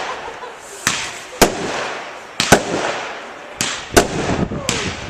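Professional fireworks display: seven sharp shell bursts at uneven spacing, a few of them close pairs, with a crackling hiss between the bangs.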